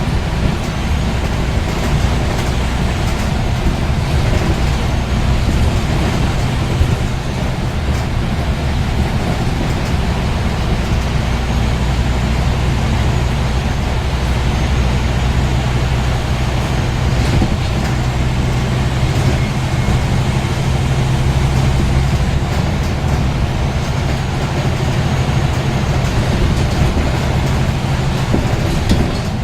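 Scania N230UD double-decker bus's 9-litre five-cylinder diesel engine running steadily under way, a low drone that works harder for a stretch in the middle. A faint high whine rises and falls several times over it.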